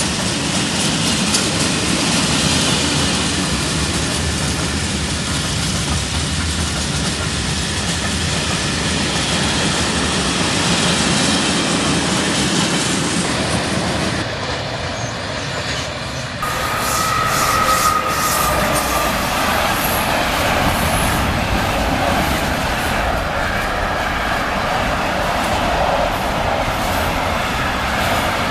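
Trains passing on the rails, with continuous wheel-and-track noise. An abrupt change about two-thirds of the way through leads into another passing train, with a brief high squeal just after it.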